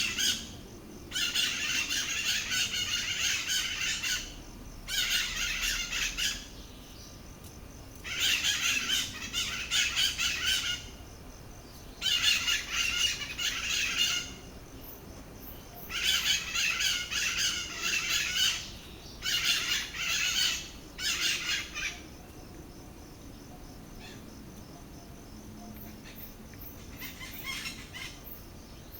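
A pair of white-eyed parakeets (Psittacara leucophthalmus) calling in a harsh, noisy racket, in about six bouts of two to three seconds each with short pauses between. After that the calling mostly stops, with only a few faint calls near the end.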